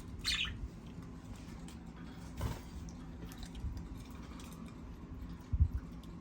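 Pet birds pecking and chewing at fresh leafy greens, with scattered small clicks and nibbling. A short high chirp comes just after the start, and a low thump near the end is the loudest sound.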